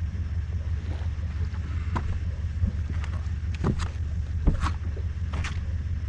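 Bass boat's outboard motor idling with a steady low drone while the boat is driven onto its trailer, with a few short light knocks.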